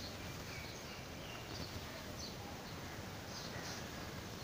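Faint steady background noise with scattered short, high bird chirps.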